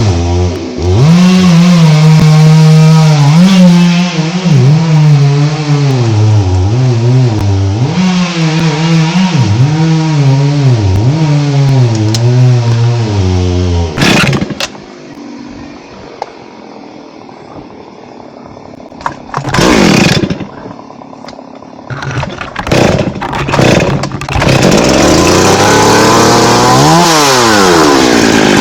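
Two-stroke chainsaw cutting thambakam (Hopea parviflora) wood at high revs, its pitch sagging and recovering under load. About halfway it drops low for roughly ten seconds apart from a few short throttle revs, then revs up loud again with a pitch dip near the end.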